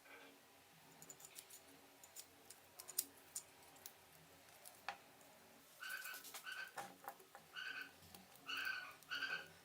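Light clicks and taps of small blender parts being handled, then from about six seconds in a run of short squeaky rubbing strokes, some in pairs, as the dirty parts are scrubbed.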